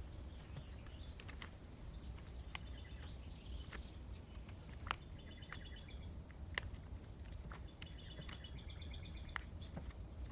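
Songbirds chirping in short, rapid trills, three or four times, over a steady low rumble, with scattered light clicks and taps.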